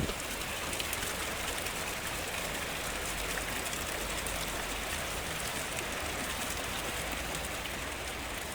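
Hot spring water running steadily, an even rushing hiss of flowing water.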